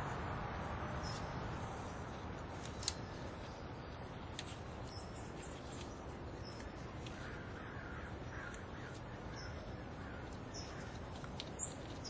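Birds calling over a steady low background noise, with a run of short harsh calls about seven to nine seconds in. Two sharp clicks, about three seconds in and near the end.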